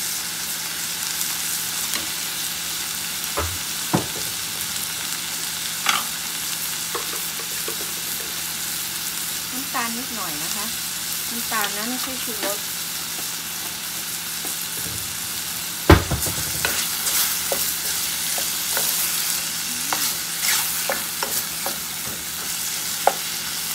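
Chicken pieces and chilli paste frying in a stainless steel pot, a steady sizzle, stirred with a wooden spoon that scrapes and knocks against the pot. There are several knocks, the loudest about 16 seconds in.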